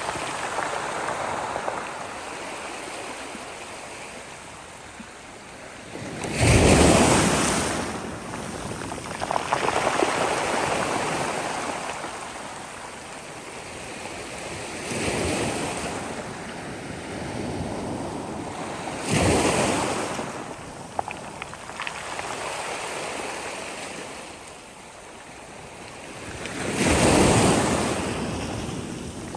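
Sea waves breaking on a shore. Three big breakers crash, about a quarter of the way in, two-thirds in and near the end, with softer surf hissing and washing between them.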